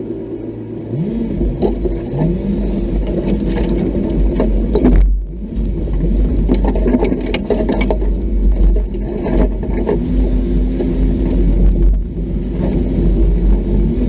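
An off-road vehicle's engine running and picking up revs about a second in, over a heavy low rumble, with scattered knocks and scrapes.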